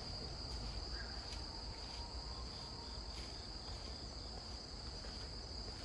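Crickets chirring in a steady, unbroken high drone, over a faint low rumble.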